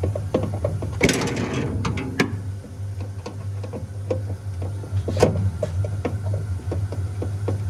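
Steady low hum of a commercial beer fridge's compressor and condenser fan running, under a string of clicks and knocks as a panel cover is unfastened and handled, with a scraping rustle about a second in.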